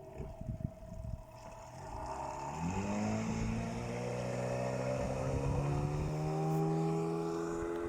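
HDX 9.9 (15) hp outboard motor revving up: after a low uneven rumble, its pitch rises sharply a third of the way in and it then runs steadily at higher speed, creeping slightly higher near the end.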